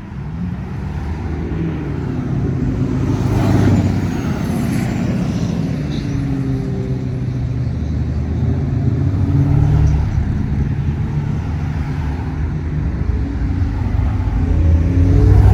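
Classic car engines rumbling as cars cruise slowly past, one after another. The low engine note shifts in pitch and swells about four seconds in and again near the end.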